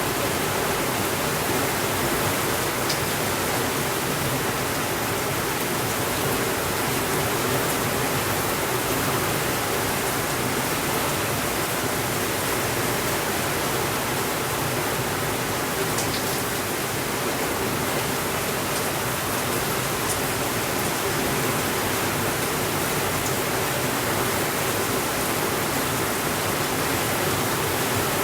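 Steady rain falling, an even hiss that never changes in level, with a few faint clicks scattered through it.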